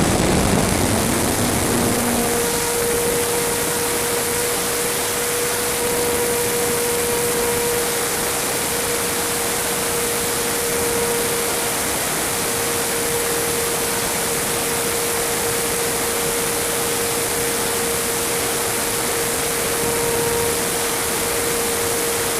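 RC model aircraft in flight: a steady motor-and-propeller tone over a loud, even rush of air noise. The tone comes in about two seconds in.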